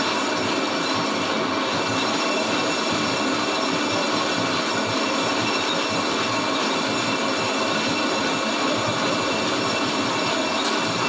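Metal lathe running while a cutting tool skims a cast-iron brake disc: a steady, even scraping noise with a few faint high steady tones.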